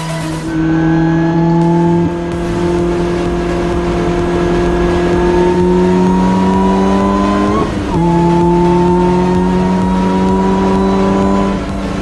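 Race car engine pulling hard under load, its pitch climbing slowly through a gear, with a quick upshift about eight seconds in, after which it climbs again.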